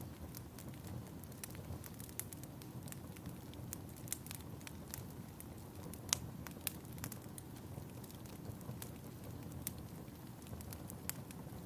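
Wood fire crackling in a fireplace: a low steady rumble of flames with frequent sharp pops, the loudest about six seconds in.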